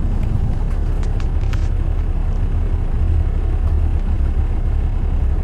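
Steady low rumble of city road traffic, with a few faint ticks about a second in.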